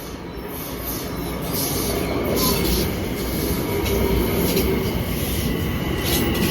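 Long Island Rail Road train running past, growing louder over the first two seconds and then holding steady. Wheel clicks over the rail joints come through along with a thin, steady wheel squeal.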